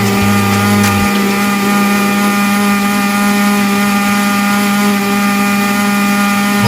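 Countertop blender motor running steadily, blending a thick green smoothie mix of kale, banana, apple, avocado and cucumber; a loud, even motor whine that holds one pitch.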